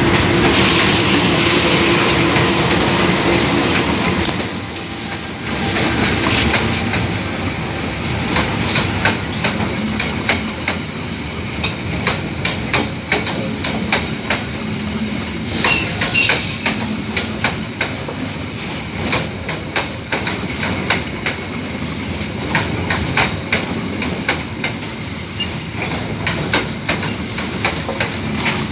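A diesel-electric locomotive-hauled passenger train passing close by. The locomotive rumbles loudly for the first few seconds, then the coach wheels clack continuously over the rail joints.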